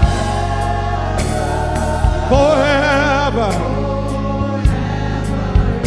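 Gospel praise-and-worship song: a singer holds a long note with vibrato over a live band's bass and drums.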